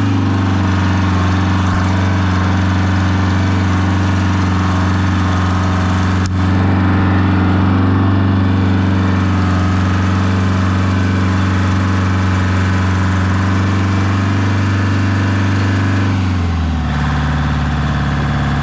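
Oliver tractor engine running at a steady speed, with one sharp click about six seconds in. Near the end the engine slows, its pitch dropping, and settles at a lower speed.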